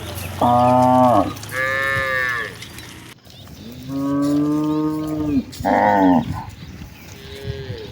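Cattle in a herd mooing: about five calls from different cows, one after another. Some are low and drawn out, lasting over a second, and others are shorter and higher-pitched.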